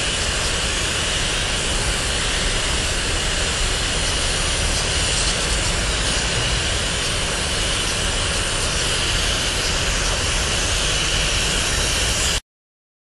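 Freight cars of a BNSF merchandise train rolling past: a steady rumble and hiss of steel wheels on rail, which cuts off abruptly near the end.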